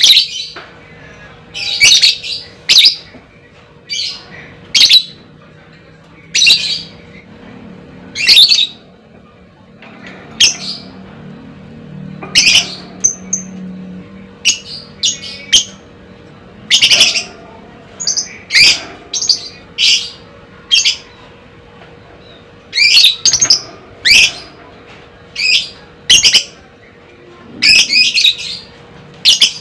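Lovebird giving short, shrill chirping calls one after another, roughly every one to two seconds.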